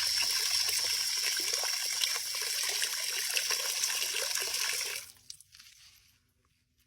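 Water running or rushing, with a steady high tone in it, dying away about five seconds in.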